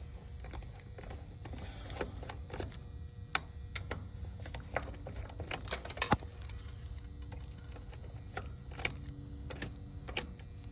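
Irregular sharp clicks and small taps from hands and tools working on an air-conditioner condenser's contactor, which is burnt out, over a low steady hum.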